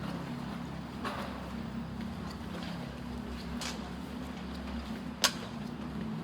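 Electric passenger train humming steadily at a station platform, a low, even drone with several steady tones. A single sharp click comes about five seconds in.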